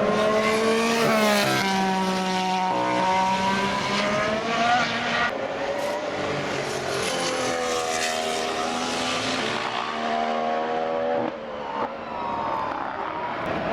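Formula One cars' 1.6-litre turbocharged V6 hybrid engines passing through a chicane, one after another. Each engine note drops in steps as the car downshifts under braking, then rises as it accelerates out.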